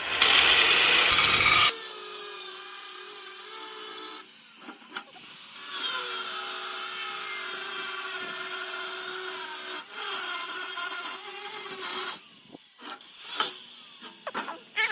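Power tool cutting through a metal exhaust pipe, running steadily with a high-pitched grinding whine from about two seconds in, dipping briefly around four seconds, and stopping near twelve seconds.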